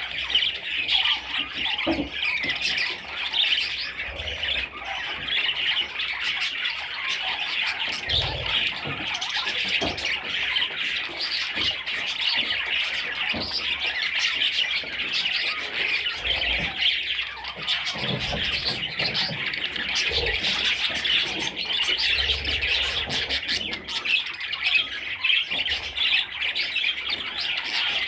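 A flock of budgerigars chattering and chirping non-stop in a dense, continuous twitter, with a few brief low thuds.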